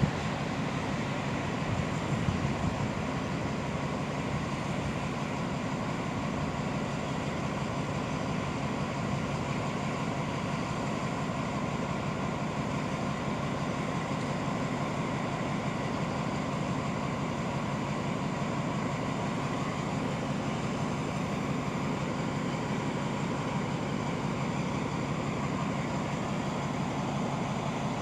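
Steady low running of a train's diesel engine idling while the train stands at the station platform, unchanging throughout.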